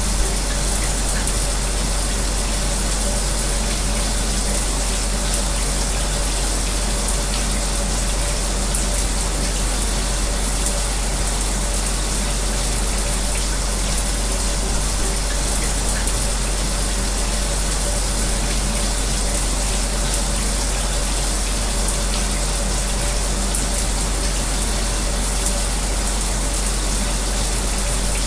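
Shower spray running steadily with the low, even hum of an electric fan underneath.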